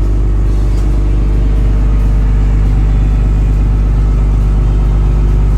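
Sightseeing cruise boat's engine running with a steady low drone.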